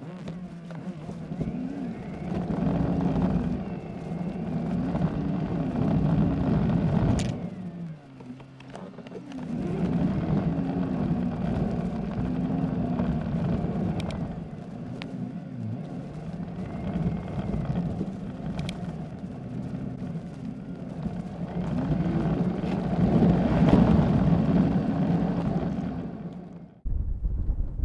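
Car engine running, heard from inside the cabin while driving down a steep, narrow mountain pass. The engine note rises and falls, dips briefly about eight seconds in, and has a few faint clicks over it.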